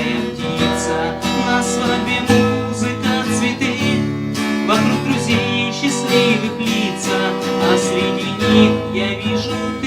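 Acoustic guitar strumming chords in a steady rhythm as the song's closing bars.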